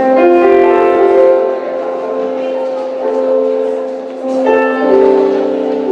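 Slow worship music played on keyboard: held chords ringing on, with a new chord struck about four seconds in.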